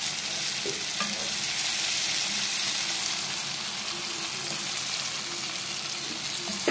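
Thick tomato-onion masala with pieces of boiled brain sizzling steadily in a frying pan, a spatula stirring through it.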